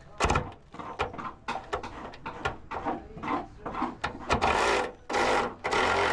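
Electric ratchet buzzing in three short bursts about four seconds in, spinning out bolts. Before that come scattered clicks and knocks of tools and bolts being handled.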